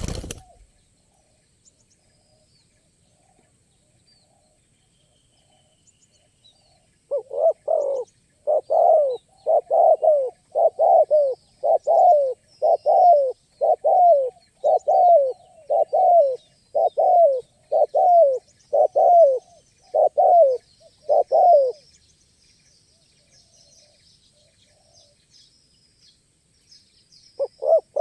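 Spotted dove (tekukur) cooing loudly: a long, steady run of about fifteen rising-and-falling coo notes, nearly one a second, starting about seven seconds in. A short burst of coos returns near the end. Small birds chirp faintly in the background.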